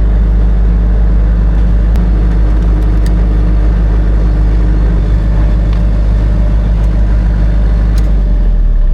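A large engine running steadily with a loud, deep drone, its lowest hum dropping away near the end as it winds down.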